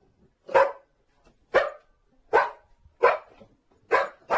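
A dog barking repeatedly, about one bark a second, with the barks coming a little faster near the end.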